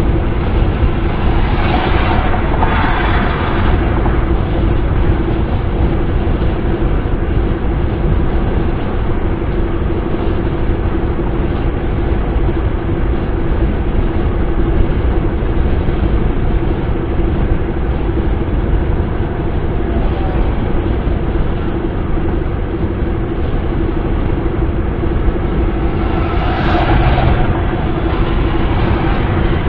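Wind and road noise of a car driving at speed: a steady low rumble and hiss with an even hum underneath. Two brief swells of louder hiss come about two seconds in and near the end.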